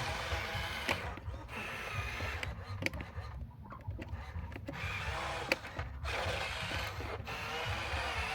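Small electric motors and plastic gearboxes of a Huina radio-controlled construction toy whirring in short runs, with sharp clicks and ratcheting. The motor whine drops away for a while in the middle, then picks up again.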